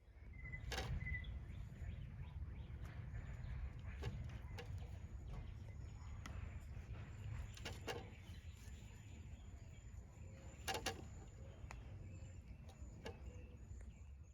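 Faint outdoor ambience: a steady low rumble with a scattered few small clicks and knocks, the clearest about a second in, near eight seconds and near eleven seconds, and a brief bird chirp near the start.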